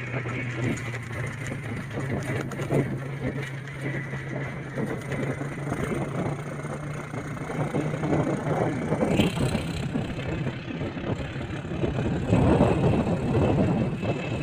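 A vehicle on the move, its engine a steady low hum over road noise. The hum fades about nine seconds in and gives way to louder rumbling near the end.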